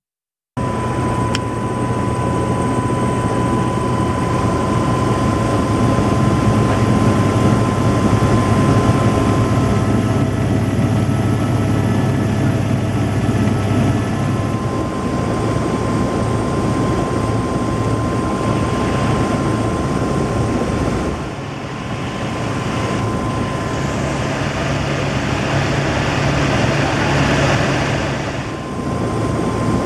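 Helicopter rotor and engine noise in flight: a loud, steady din with a constant high whine running through it.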